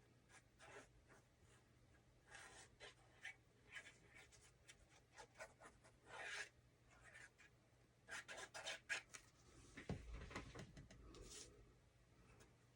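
Faint rustling and light taps of paper and cardstock being handled and pressed down while gluing a piece onto a card, with a soft thump on the work surface late on.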